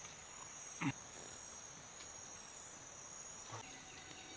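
Rainforest insects droning steadily at a high pitch, with a short faint sound about a second in.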